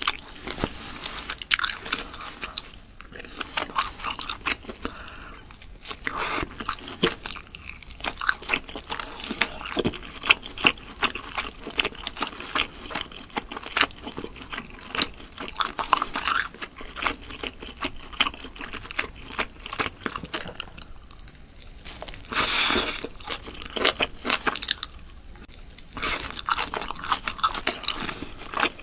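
Close mouth sounds of biting and chewing sauce-glazed grilled chicken skewers: a steady run of irregular wet clicks and crunches, with one louder, longer burst about three quarters of the way through.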